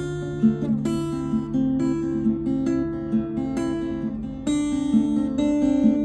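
Music played on acoustic guitar: plucked and strummed notes over a held low tone, growing louder and fuller about four and a half seconds in.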